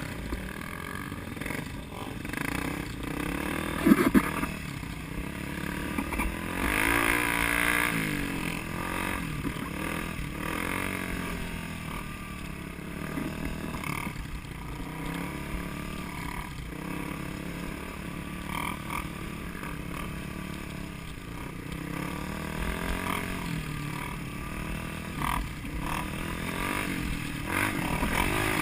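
Car engine revving up and easing off repeatedly while driving, over steady road noise, with a sharp knock about four seconds in.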